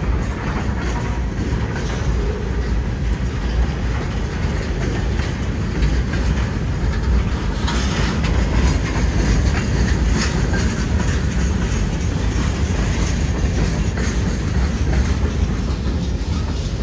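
Empty freight cars, centerbeam flatcars and then tank cars, rolling past: a loud, steady rumble with wheels clicking over the rail joints. The sound grows brighter, with more high rattle, for a few seconds about halfway through.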